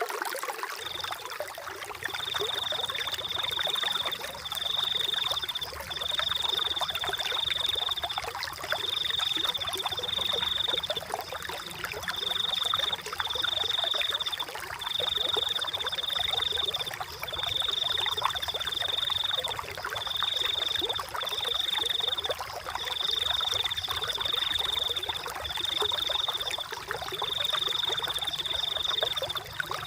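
Running water trickling and babbling, with a high, even trilling call repeating in bursts about a second long with short gaps between.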